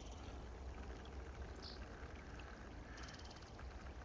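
Steady outdoor background of a flowing creek under a low rumble. A small bird gives a short high note about one and a half seconds in and a quick high trill about three seconds in.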